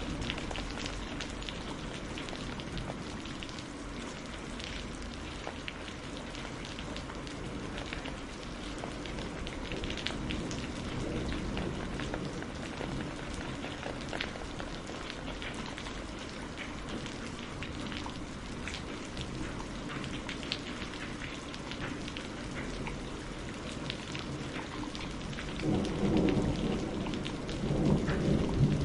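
Steady rain, with scattered sharp crackles of burning firewood. Two louder low rumbles come near the end.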